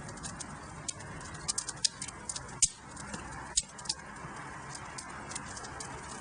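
Wood fire burning in a fireplace, crackling: irregular sharp pops and snaps over a steady hiss of the flames, with a few louder pops in the first half.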